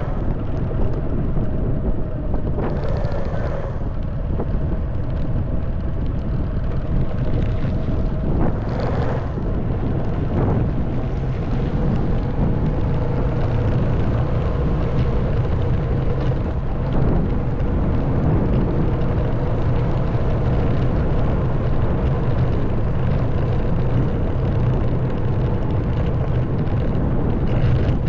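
Honda Wave 110cc single-cylinder four-stroke motorcycle engine running steadily while riding, with wind on the microphone. Two brief hissing rushes come about three and nine seconds in.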